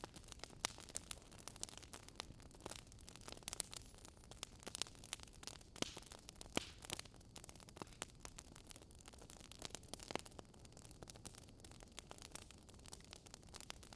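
Wood fire crackling: irregular snaps and pops over a faint hiss.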